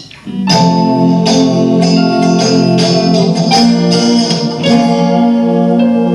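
Live band music starting about half a second in: sustained chords with a steady beat of percussion hits.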